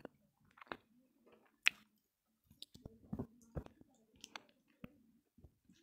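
Close-miked chewing of roasted multani mitti (Fuller's earth clay): about eight scattered sharp crunchy clicks and crackles, with short gaps between them.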